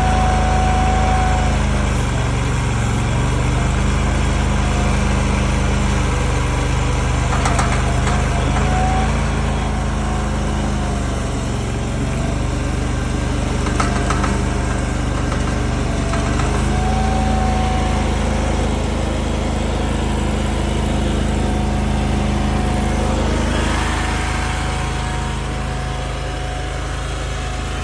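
Small gasoline engine of a compact mini loader running steadily. Its note dips and recovers several times, and a thin high whine comes and goes over it.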